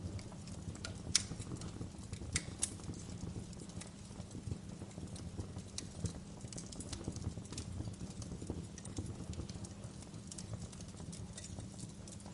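Wood fire crackling in a fireplace: scattered sharp pops and snaps over a low steady rumble of the flames, the loudest pop about a second in.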